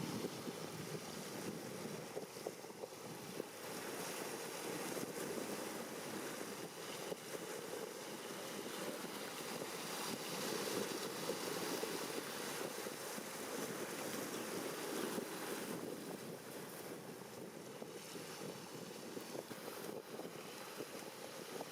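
Steady rushing wind on the microphone, swelling and easing slightly, with no distinct engine tone.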